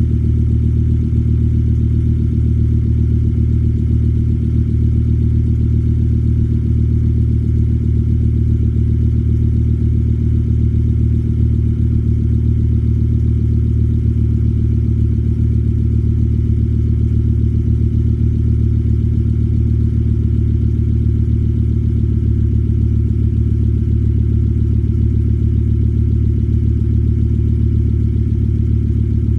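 2006 Volvo S60 T5's turbocharged inline-five idling steadily after a cold start, heard through an IPD cat-back exhaust.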